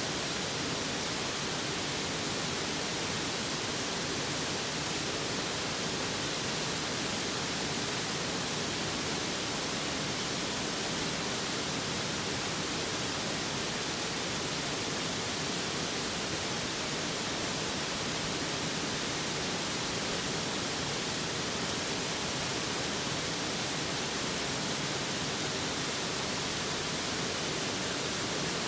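Mountain stream rushing over rocks: a steady, even hiss of running water with no breaks.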